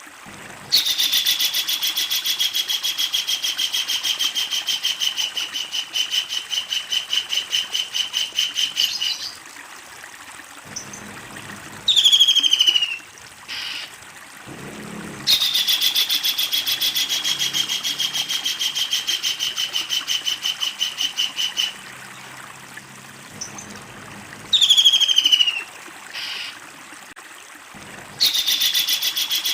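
Kingfisher calling loudly in long, fast rattling series of repeated notes, three times, each run lasting several seconds. Between the runs are two short calls that fall steeply in pitch.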